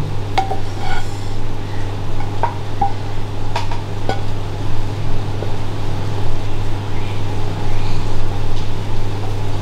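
Wooden spatula scraping and knocking against a frying pan as stir-fried food is scooped out onto a plate, a few sharp taps over a steady low hum.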